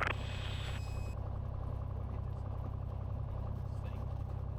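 Cessna 182's six-cylinder piston engine running steadily at low taxi power, a low, even drone. A brief radio hiss at the start cuts off within the first second.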